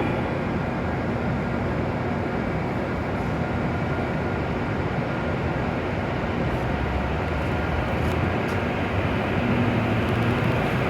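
W7 series Shinkansen train at a station platform, making a steady low running noise that swells slightly in the low end in the latter half.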